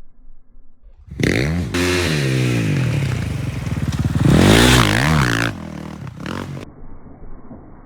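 Dirt bike engine revving hard, its pitch climbing and dropping twice, starting abruptly about a second in and cutting off near the end. Muffled rumble before and after.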